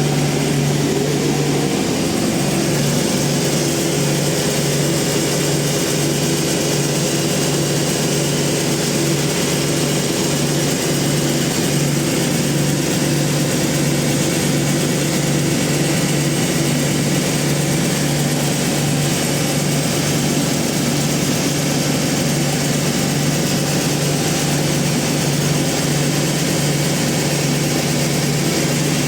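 Log bandsaw mill running steadily: a constant low hum under a broad, even hiss, with no pauses or changes.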